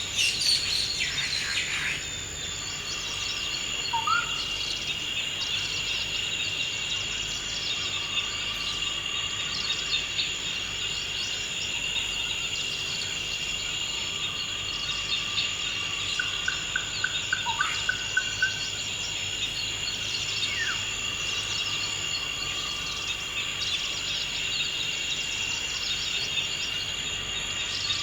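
Forest ambience: a steady, high-pitched chorus of crickets or other insects, with scattered bird calls over it. There is a burst of birdsong in the first couple of seconds, then a few short rising whistles, and a brief trill about two-thirds of the way through.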